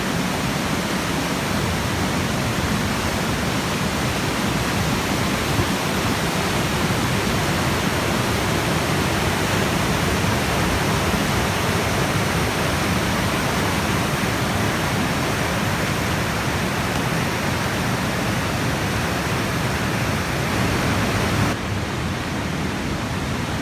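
Steady rush of river rapids and white water. The hiss thins suddenly near the end.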